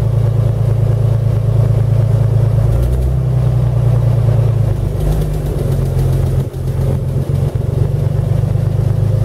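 The 1917 Buick's six-cylinder overhead-valve 242 engine running steadily as the open touring car moves slowly, heard from the driver's seat; its note shifts a little a few times, with two brief dips in level past the middle.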